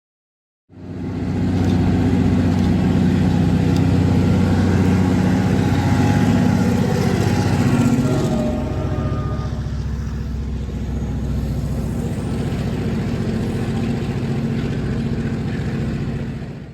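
Diesel locomotive engine running loudly and steadily, starting about a second in, dipping in pitch about eight seconds in, then settling again.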